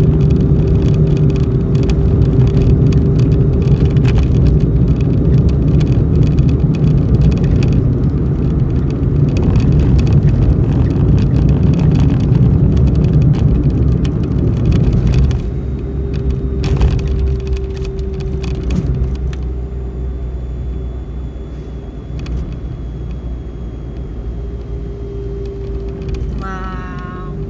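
A person toning: humming or singing one long steady note, held for several seconds at a time and taken up again at the same pitch midway and near the end, over a continuous low rumble that eases about halfway through.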